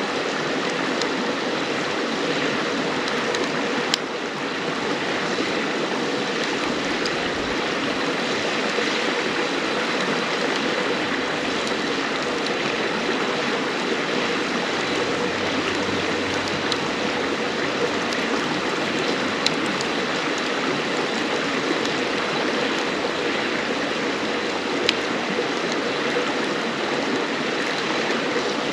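River water running steadily over stones, with a few sharp pops from a wood fire: one about four seconds in and two more in the second half.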